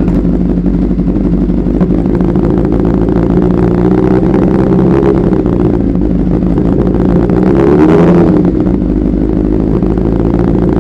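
Kawasaki ZZR1100 (ZX-11) inline-four engine idling loud and steady through a new aftermarket exhaust, given light throttle blips, the biggest rise about eight seconds in.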